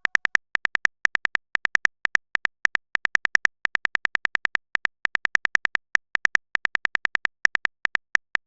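Keyboard typing sound effect: a quick, uneven run of short clicks, about five a second, as a chat message is typed out.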